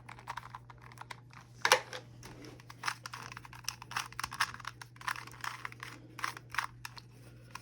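Plastic twisty-puzzle cube being turned by hand: a quick, irregular run of clicks and clacks as its layers are twisted, with one sharper clack about two seconds in.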